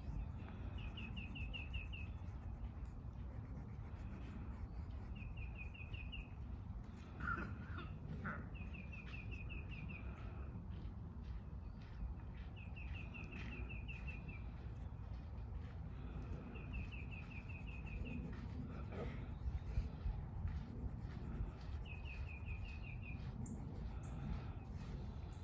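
A songbird singing a short, quick run of evenly spaced chirps, six times at intervals of about four seconds, over a steady low outdoor rumble.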